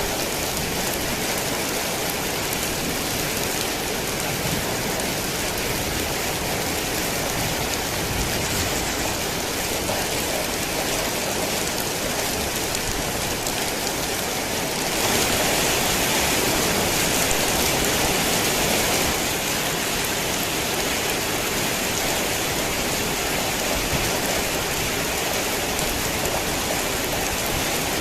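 Steady rain falling, a dense even hiss of drops, swelling louder for a few seconds about halfway through.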